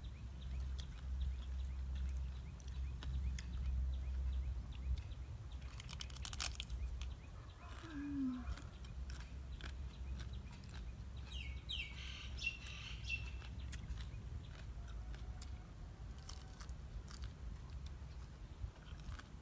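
Close-up chewing and biting of raw vegetables and leaves, a string of small crunches and mouth clicks. Birds chirp in the background, most clearly around the middle.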